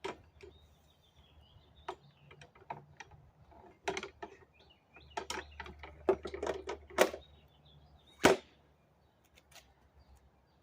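Grass-catcher bag being hooked onto the rear of a Toro Recycler mower under its lifted discharge flap: a scattered series of clicks and knocks, the loudest a sharp knock about eight seconds in.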